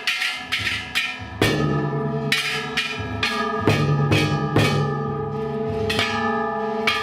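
Ishidori festival float's kane gongs and taiko drum being struck in a loud, irregular clangour, several strokes a second. Each gong stroke keeps ringing.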